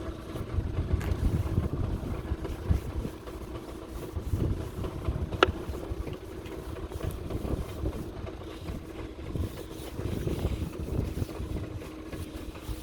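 Skoda Octavia 1.6 TDI diesel engine idling after a cold start, a steady low rumble with a faint steady hum over it. A single sharp click about five and a half seconds in.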